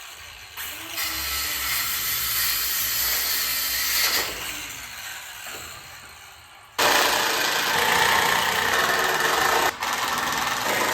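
Power tools working 2x4 lumber, a noisy mechanical run that jumps abruptly in level several times and is loudest from about seven seconds in.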